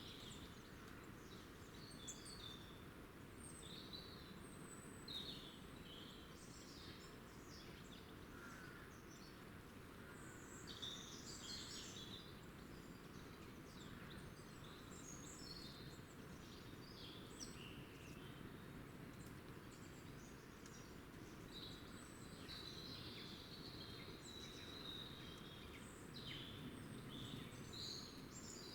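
Small birds chirping and singing, faint, with many short calls and trills throughout over a steady low background hum.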